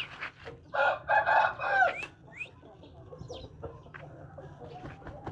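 An Aseel rooster crows once, starting about a second in and lasting about a second, with a drop in pitch at the end. A few short, higher chirps follow.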